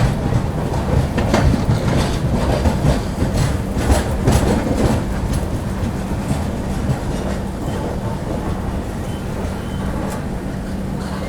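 Passenger train rumbling along the rails with a steady low hum, with sharp wheel clacks over rail joints in the first few seconds that thin out as it runs more quietly.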